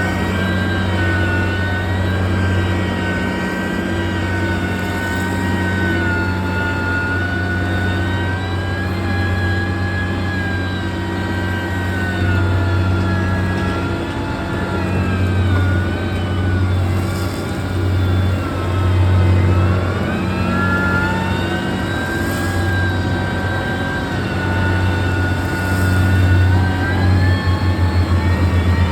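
Diesel engine of heavy road-construction machinery running under load, a steady low drone with a whine that drifts up and down in pitch. Near the end the engine note turns into a quick, even pulsing.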